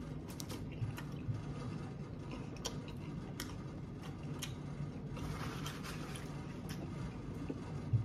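Quiet close-miked chewing of a mouthful of food, with scattered soft mouth clicks and smacks.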